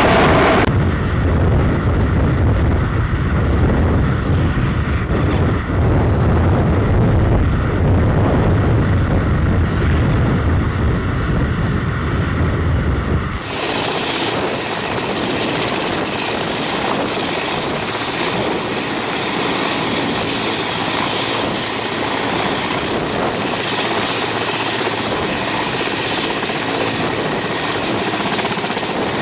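Large helicopter running, with a deep, heavy rumble. About halfway through the sound changes abruptly to a thinner, hissier turbine sound with a high steady whine.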